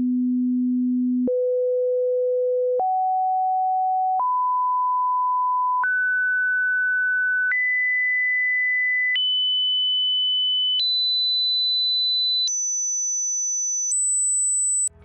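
Pure-tone hearing-test tones of an air conduction audiometry test: ten steady single-pitch beeps in a row, each about one and a half seconds long, stepping up in pitch through the standard audiogram frequencies from 250 up to 8000 hertz.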